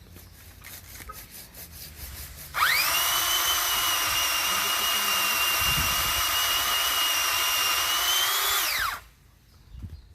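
Pole saw motor starting abruptly about two and a half seconds in, running at a steady high-pitched whine for about six seconds, then winding down.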